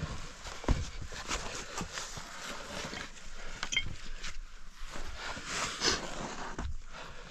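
A caver scrambling through a tight rocky passage: irregular scraping and rustling of clothing and gear on rock, with scattered knocks of stones.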